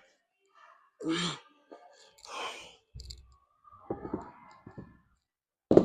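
A man breathing hard between sets of biceps curls, with several heavy exhales and sighs, the loudest near the end. A few light knocks and clicks in the middle.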